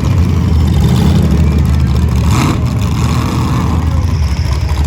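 Demolition derby cars' engines running and revving loudly, with a short sharp burst of noise about halfway through.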